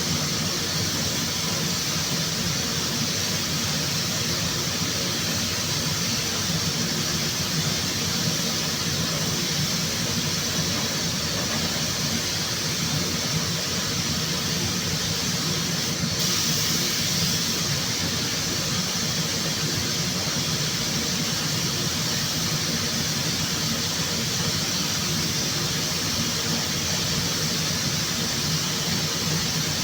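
Steady, unbroken hiss and hum of workshop machinery, with a brighter hiss for a second or so near the middle.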